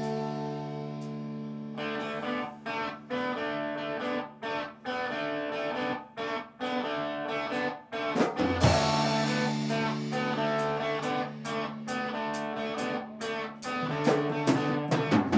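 Rock band playing an instrumental passage led by electric guitar: a held chord, then a stop-start riff with short breaks and a heavy hit about halfway through.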